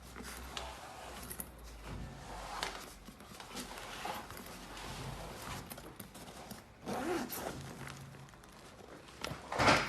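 Zip on a soft cooler backpack being worked: a series of short, uneven zipping strokes and handling of the bag, the loudest stroke near the end.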